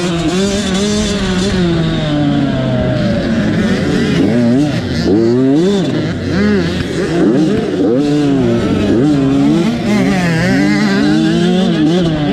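Motocross dirt bike engines revving, their pitch rising and falling again and again as the riders work the throttle.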